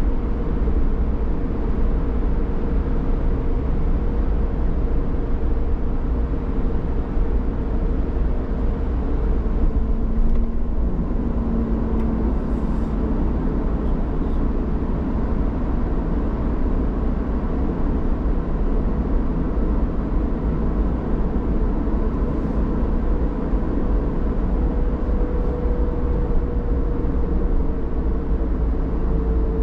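A road vehicle driving at a steady pace: constant tyre and engine noise, heavy in the low end, with a faint steady hum that shifts a little in pitch now and then.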